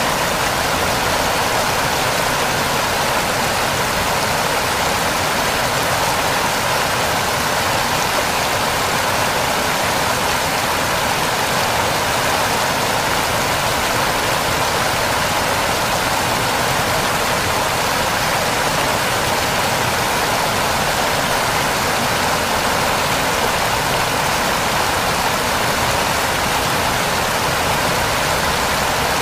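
Waterfall: water rushing in a steady, unbroken hiss.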